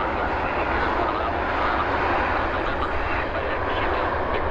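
Jet airliner engines making a steady rushing noise.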